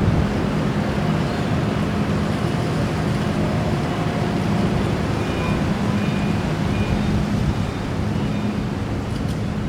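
Steady low engine hum over a broad wash of harbour and traffic noise.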